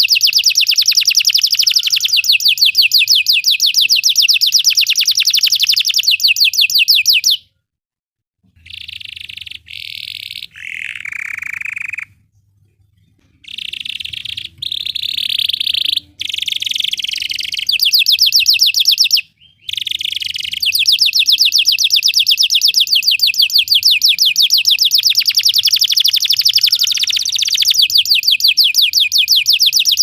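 Canary singing. A fast, even, high trill runs for about seven seconds and breaks off. After a short pause come shorter, varied phrases, one of them a falling glide. From about two-thirds of the way in, another long fast trill follows.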